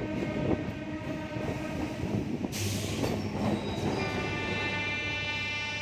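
Train wheels running over railway points and crossings, with rough knocking clatter and a short hiss about halfway. A steady pitched tone comes in about four seconds in and holds.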